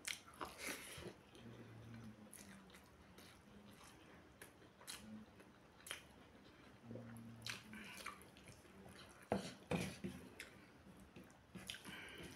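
Close-miked wet chewing and mouth smacks of a person eating rice and curry by hand, mixed with the soft squish of fingers working rice on a plate; two sharper smacks stand out a little past nine seconds in.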